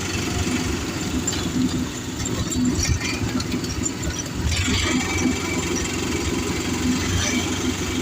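A vehicle engine running steadily, a low continuous rumble with a faint steady hum.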